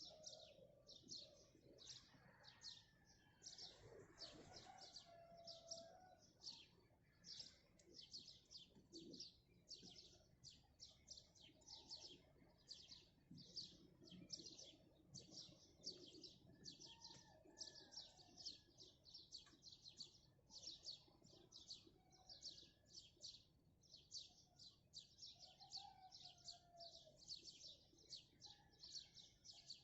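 Faint birdsong: one bird's short high chirp repeated steadily about two or three times a second, with softer, lower calls from other birds now and then.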